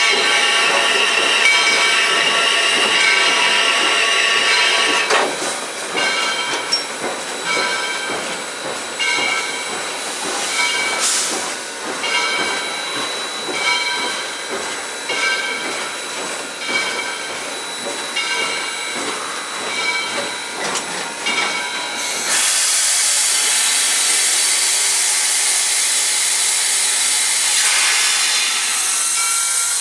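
Steam hissing in the cab of Southern Railway #630, an Alco 2-8-0 Consolidation steam locomotive. Through the middle it pulses steadily about once a second, and about two-thirds of the way through a louder, higher hiss of steam sets in abruptly.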